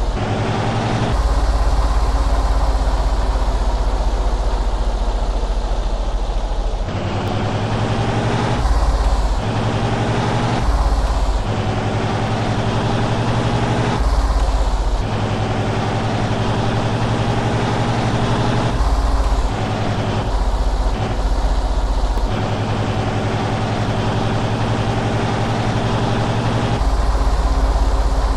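Heavy truck engines running, heard across a string of short cut-together clips; the engine note and loudness jump abruptly at each cut, about a dozen times.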